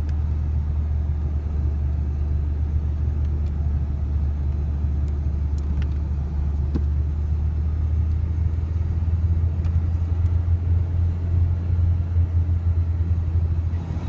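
Low, steady engine and road rumble inside the cab of a small 1994 Ford Ranger pickup on the move, with a few faint ticks.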